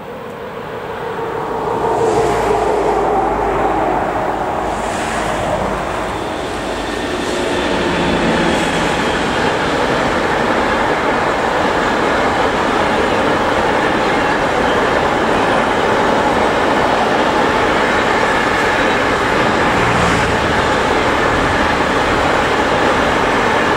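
Electric locomotive hauling a freight train of double-deck car-carrier wagons passing at speed: the sound grows louder over the first two seconds as the locomotive comes by, then settles into a steady wheel-on-rail rolling rumble and rattle as the long string of wagons goes past.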